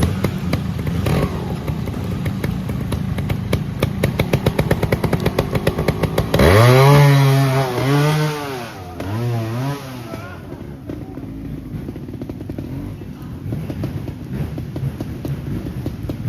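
Trials motorcycle engine running at low revs with a rapid firing pulse, then three sharp throttle blips about six and a half seconds in, each rising and falling in pitch, the first the longest and loudest, before it drops back to a quieter low-rev running.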